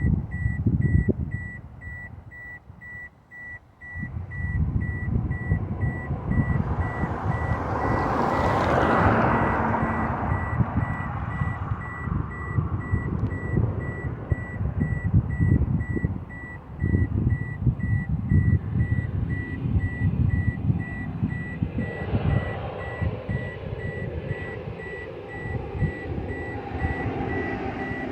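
An airplane coming in to land passes over, its noise swelling to a peak about eight to nine seconds in and then fading. A vehicle's reversing beeper beeps steadily throughout, and wind buffets the microphone.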